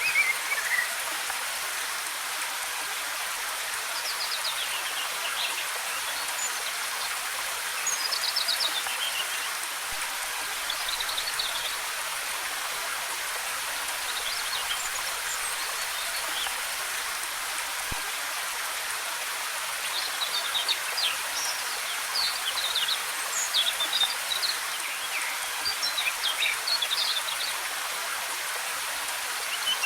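Steady hiss of cascading waterfall water, with small forest birds chirping short, high, trilling phrases off and on, busiest in the second half.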